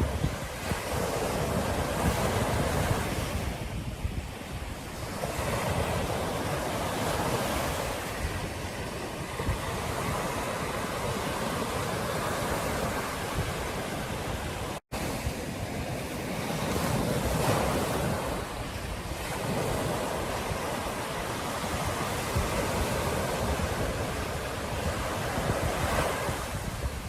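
Ocean surf breaking and washing on a beach, swelling and easing every few seconds, with wind buffeting the microphone. The sound drops out for an instant about halfway through.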